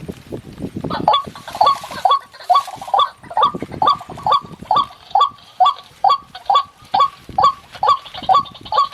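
White-breasted waterhen call: a harsh croaking note repeated rapidly, about two and a half times a second, starting about a second in, preceded by low wind or handling rumble. This is the waterhen call used to lure the birds to the trap.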